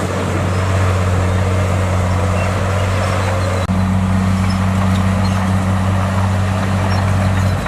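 Heavy earthmoving machine's diesel engine running steadily with a deep drone. Its note changes abruptly a little past halfway through.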